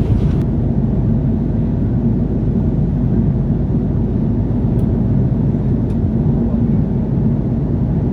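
Steady low rumble of an Airbus A330-300's Rolls-Royce Trent 700 engines and airflow, heard from inside the economy cabin.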